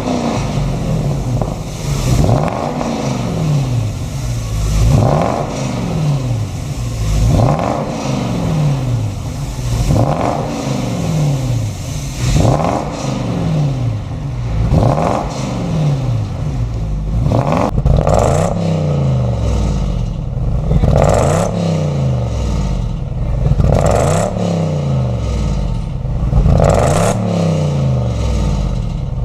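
Jaguar S-Type engine revved repeatedly through a custom dual exhaust, the exhaust note rising and falling back about every two and a half seconds, around a dozen times.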